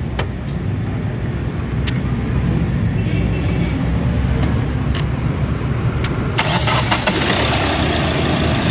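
Hyundai Verna diesel engine just started and running, turning its newly fitted water pump and alternator belt. There are a few sharp clicks, and about six seconds in a loud hiss joins the engine hum.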